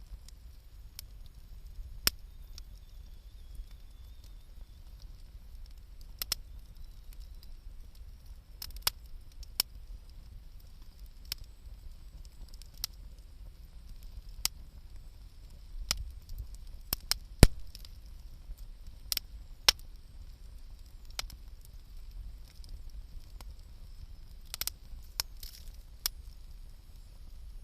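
Wood fire crackling: irregular sharp pops and snaps of burning wood, about one every second or two and one louder snap a little past the middle, over a faint low rumble.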